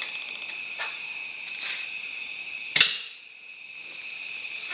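Tyre levers clinking against a motorcycle wheel rim as a tyre is worked onto it: a couple of faint knocks, then one loud sharp clack about three seconds in. Crickets chirr steadily in the background and fall quiet briefly after the clack.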